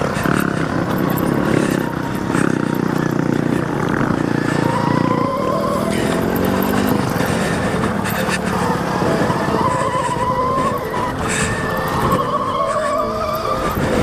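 Electric motor of a Rawrr Mantis X e-moto dirt bike whining under throttle, its pitch rising and falling several times as the rider accelerates and backs off, over a steady rush of wind and tyre noise.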